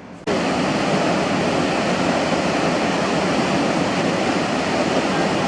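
Loud, steady rush of water, like a waterfall, cutting in suddenly just after the start.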